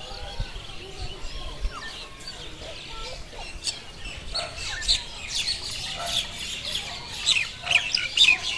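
Small birds chirping and calling in a busy chorus of short, quick notes that grows denser and louder near the end.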